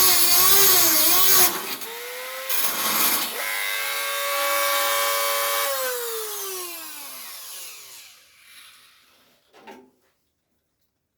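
Dremel rotary tool whining as it grinds, its pitch wavering under load. About a second and a half in it eases off, then speeds up again and runs steady. It is then switched off and winds down, its pitch falling away over a couple of seconds.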